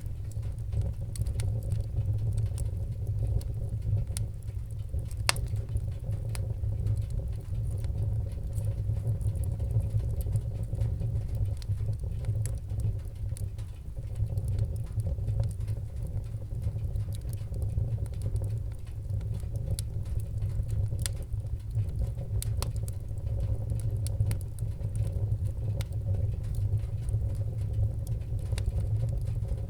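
Wood fire in a fireplace crackling, with a steady low rumble of the burning and scattered sharp pops and snaps.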